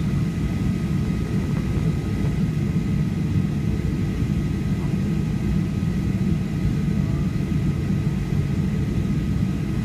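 Cabin noise of a Boeing 737-800 with its CFM56 engines running on the ground before take-off: a steady low rumble with faint, steady high-pitched whine tones over it.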